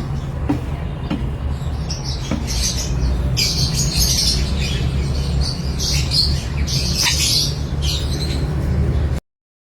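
Small pet parrots calling in a cluster of shrill, high-pitched chirps and squawks, over a steady low rumble. The sound cuts off abruptly near the end.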